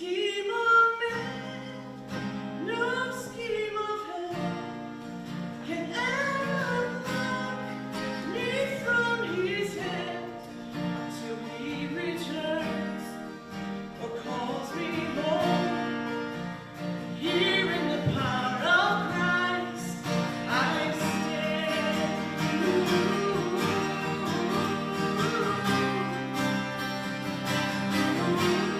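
A worship song sung with guitar accompaniment, the singing carried over sustained chords.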